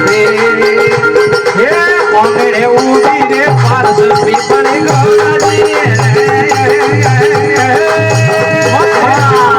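Rajasthani folk devotional bhajan music: a steady held drone note with a gliding melody over it and a regular low drum beat.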